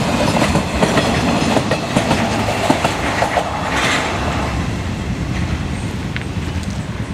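Empty flat freight wagons rolling past, their wheels clattering over the rail joints. The clatter fades after about four seconds, once the last wagon has passed and rolls away.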